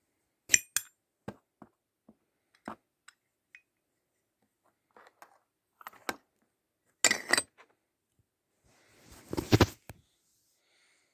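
Metal Zippo lighter parts clinking and knocking as they are handled: a few sharp, ringing clinks at the start, scattered light taps, a loud cluster of clinks about seven seconds in, and a longer, louder rattle just before ten seconds.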